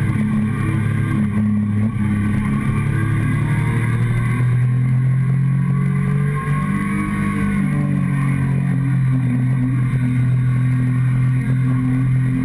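Motorcycle engine running steadily while riding, heard close up from a camera on the fuel tank, with wind rush over it. The engine note shifts up slightly about four seconds in.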